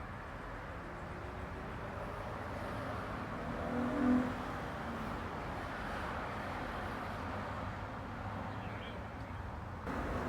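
Steady hum of busy road traffic going past, with one short, louder pitched sound from a vehicle about four seconds in.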